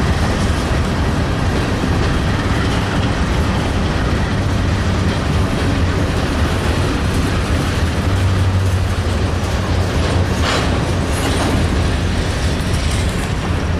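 Empty covered hopper cars of a freight train rolling past, steel wheels clattering on the rails over a steady low rumble, with two brief sharper knocks about ten and eleven seconds in.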